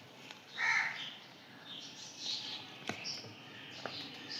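Faint bird calls: a harsh call about half a second in and fainter, higher calls around two to three seconds in, with a couple of light clicks.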